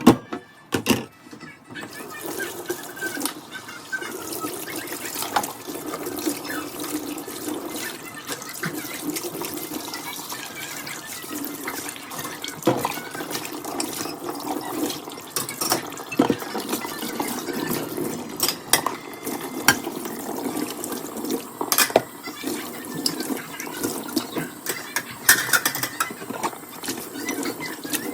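Kitchen tap running steadily into a sink during dishwashing, starting about two seconds in, with scattered clinks and knocks of dishes and utensils.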